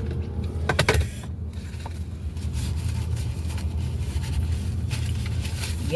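Napkins and food packaging being handled, rustling and scraping, with a few sharp clicks about a second in, over a steady low hum.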